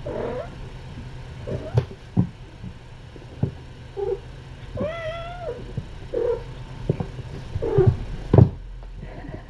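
Cats and kittens mewing: several short squeaky cries and one longer meow about five seconds in, with a few knocks and thumps of play among them.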